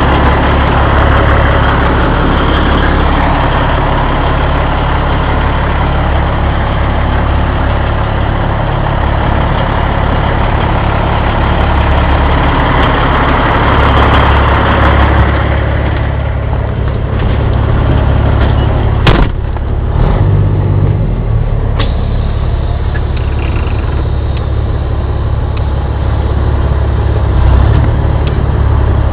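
Steady low motor drone with a hissing noise over it that drops away about halfway through, and a single sharp click about two-thirds of the way in.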